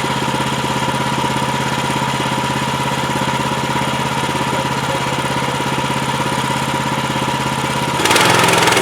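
Portable bandsaw sawmill's small petrol engine running steadily at low speed, then throttled up and louder about eight seconds in.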